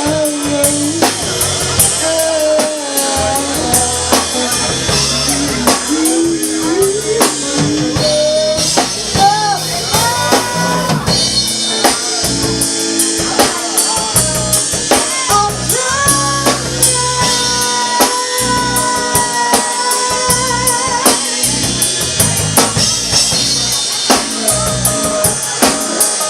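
Live band music: a drum kit keeping a steady beat under a bass line and a melody with long, wavering held notes.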